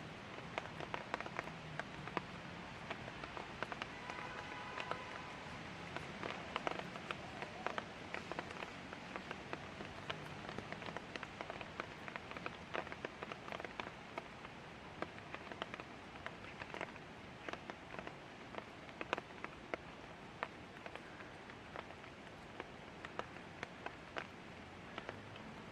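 Light rain falling steadily, with a constant hiss and many individual drops ticking on hard surfaces. A faint, brief tone sounds about four seconds in.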